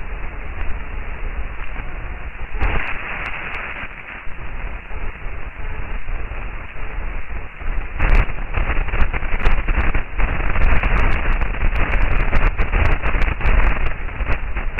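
Crackling, hissing static of a planetary 'sound', a spacecraft's radio and plasma-wave recording turned into audio. It is dotted with sharp clicks, which grow louder and denser about halfway through.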